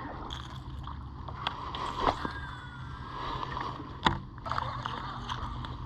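Steady low hum on a small jon boat on the water, with a few sharp knocks and clicks scattered through it.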